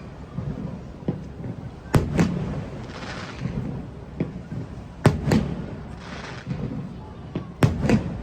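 Aerial firework shells bursting: three pairs of sharp bangs about three seconds apart, each echoing, with a crackling hiss in between.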